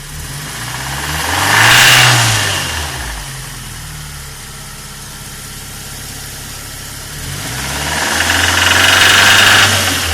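Fiat Palio 2002 Fire four-cylinder engine idling and revved twice, once briefly about two seconds in and once held near the end before dropping back. It carries an internal engine noise that the owner places near the oil filter and suspects may be the oil pump.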